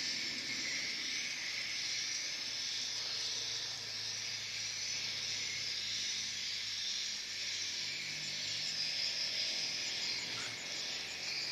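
Dense, steady twittering of many edible-nest swiftlets in a swiftlet house, merging into a continuous high hiss-like chatter.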